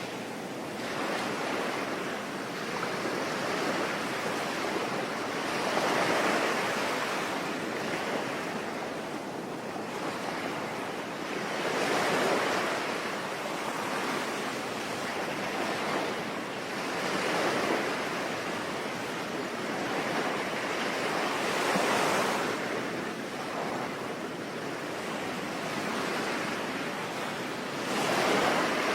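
Sea waves washing onto a shore, swelling and fading about every five to six seconds, over a steady hiss of rain.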